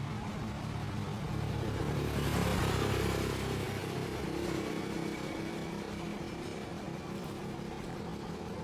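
A motorcycle engine running steadily, swelling louder for a second or so about two seconds in, then settling back.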